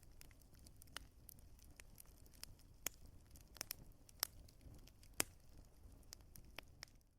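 Wood fire crackling: irregular sharp pops and snaps, a few louder than the rest, over a faint low rumble.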